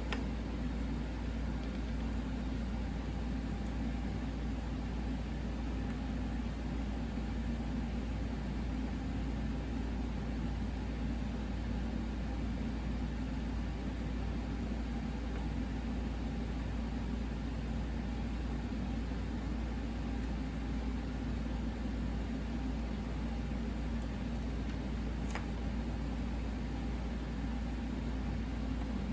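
Steady low electrical and fan hum with a faint even hiss, unchanging throughout.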